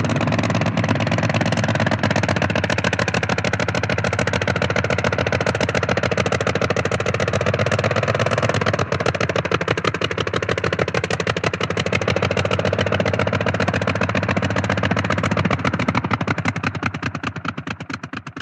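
Blériot single-propeller monoplane's engine running at low power as the aircraft taxis around, heard from outside, with rapid, even firing pulses. The sound fades out near the end.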